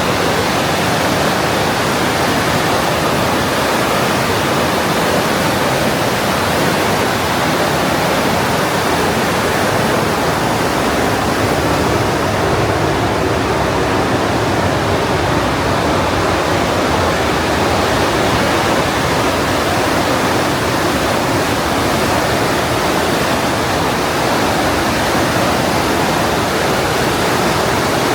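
The Partnach, a fast mountain river, rushing steadily through its narrow gorge: a loud, unbroken rush of white water.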